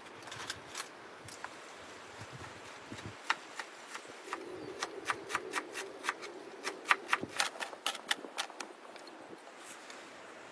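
A run of sharp clicks and taps, sparse at first and then coming several a second through the middle, with a faint low hum underneath for a few seconds.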